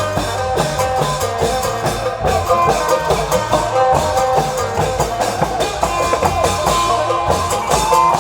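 Isan klong yao long-drum band playing: fast, dense drumming over a deep drum beat, with a melody line of held notes carried above it.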